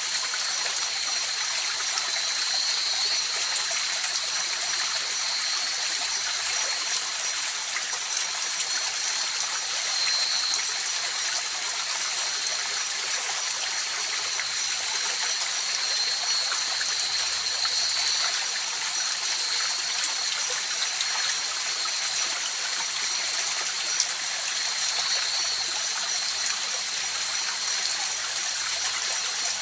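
River water flowing and trickling steadily in an even rushing hiss, with two steady high-pitched tones held above it throughout.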